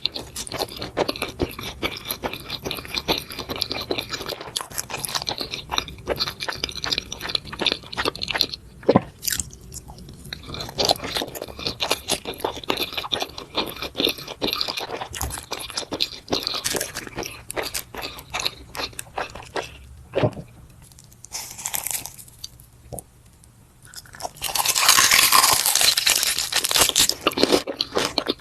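Close-miked mukbang eating of grilled beef intestine: wet chewing and crunching in rapid, uneven strokes. It eases off briefly about three-quarters of the way through, then comes back louder and denser near the end.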